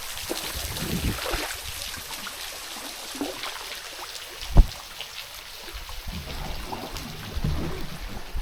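River water trickling and splashing around a canoe, with low rumbling swells and one sharp knock about halfway through.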